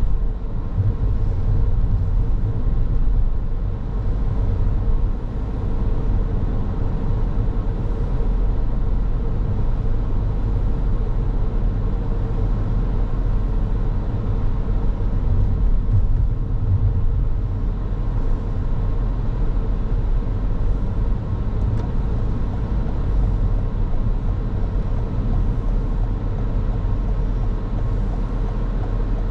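Car on the move: steady low road and engine rumble with a faint constant hum, no sudden events.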